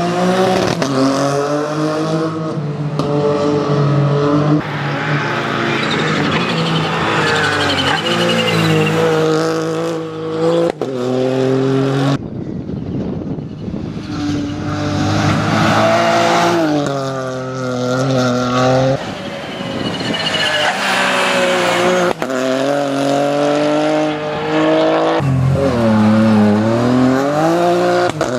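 Rally car engine pulling hard through the gears: its pitch climbs, then drops sharply at each gear change, several times over. A short lift off the throttle comes about halfway through.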